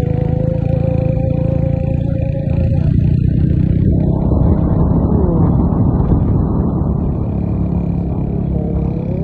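Vehicle engine pulling under way, its tone climbing slowly in pitch, with a louder rushing noise rising over it in the middle.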